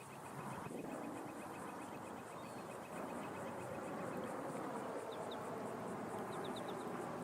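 Bees buzzing in a steady droning hum. A fast, even insect trill runs over it for the first few seconds, and a few short bird chirps come near the end.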